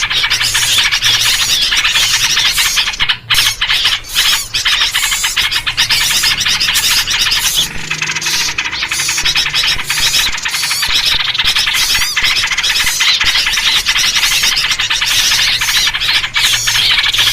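Dense, unbroken chorus of small birds chattering and scolding in agitation, a 'noisy birds' lure recording led by trucukan (yellow-vented bulbul) calls. Such mobbing-style alarm chatter is played to draw wild birds in; a faint low hum runs under it.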